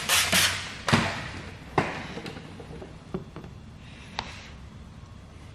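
Paint protection film being worked down onto a car's rear hatch by hand and squeegee: short swishing strokes at first, then a few separate light knocks and clicks.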